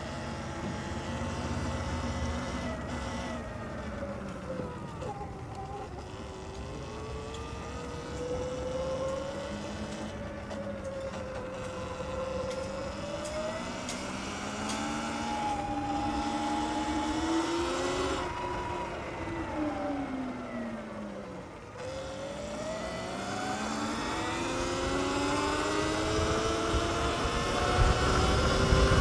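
Sur-Ron X electric dirt bike's motor whining as it is ridden. The whine falls and rises in pitch with speed, dropping low twice as the bike slows and climbing steeply as it speeds up near the end, with wind rumble growing over the last couple of seconds.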